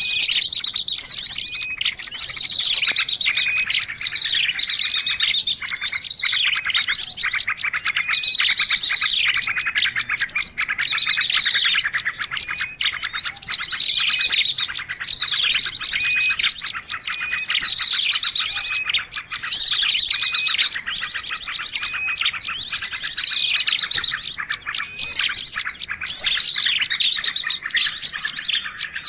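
Many small songbirds chirping and twittering at once, a dense, unbroken tangle of overlapping high chirps, trills and quick rising and falling notes.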